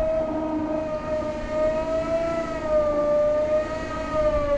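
A steady horn-like tone with several pitches sounding together, wavering slightly in pitch, held for several seconds and cutting off near the end.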